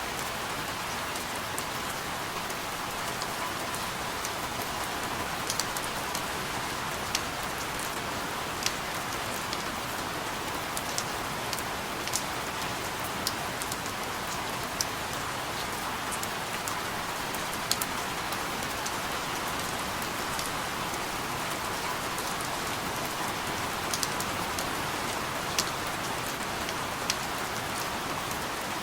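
Steady rain falling on a surface, an even hiss with scattered louder individual drop ticks every second or so.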